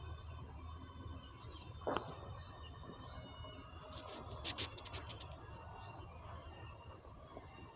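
Small birds chirping in the background over faint outdoor ambience, with a few short clicks about two seconds in and again around four and a half seconds in.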